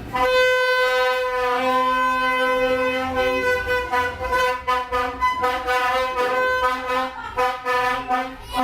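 A horn held in one long, steady note through the whole stretch, with a lower tone joining in now and then.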